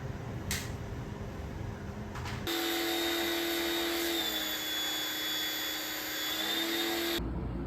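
High-pressure washer of the kind used for air-conditioner cleaning, its motor whining steadily over the hiss of the water spray. It starts about two and a half seconds in, dips slightly in pitch midway, and cuts off sharply near the end.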